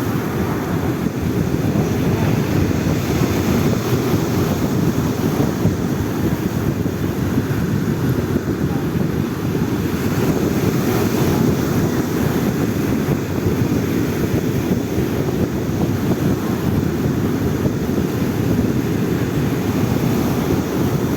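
Stormy sea surf, a steady rumble of waves, with wind buffeting the microphone.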